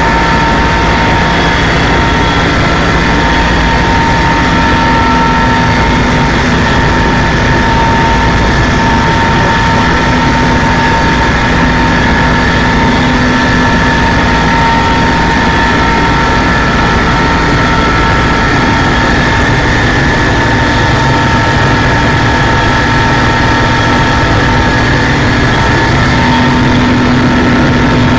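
Helicopter in flight: loud, steady engine and rotor noise, with a deep rumble under several steady high whining tones.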